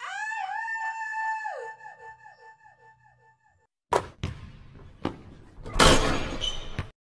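A high pitched call starts suddenly, rises, holds for over a second, then trails off in a run of falling, fading echoes. After a short gap, a basketball knocks against the hoop a few times and comes through the net. The loudest part is a rush of noise near the end, and the sound then cuts off sharply.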